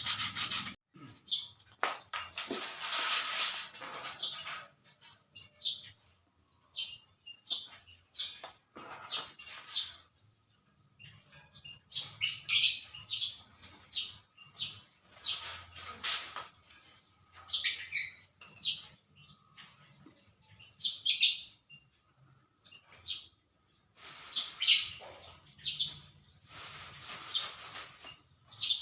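Small birds chirping in short, scattered high calls with brief pauses between them. About two seconds in, a rubbing or scraping sound runs for a couple of seconds.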